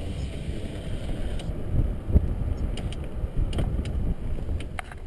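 Low, steady road rumble of a car moving slowly, heard from inside, with a few light clicks and rattles.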